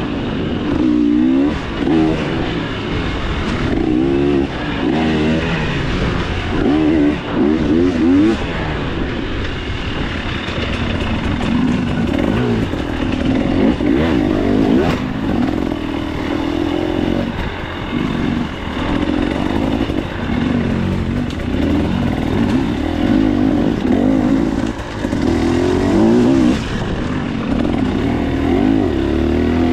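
Single-cylinder two-stroke engine of a KTM 300 XC-W dirt bike, ridden on a trail, its pitch rising and dropping back over and over as the throttle is worked, with scattered knocks and rattles.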